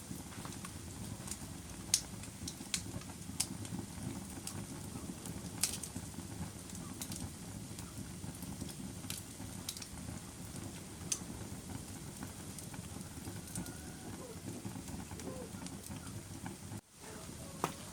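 Wood fire burning in a fireplace: a steady low rumble of flames with scattered sharp crackles and pops from the burning logs. The sound cuts out for an instant near the end, then resumes.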